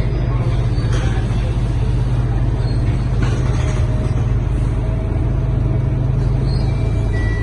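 Scania K230UB city bus's diesel engine running steadily under road noise, heard from inside the cabin, with a couple of faint knocks.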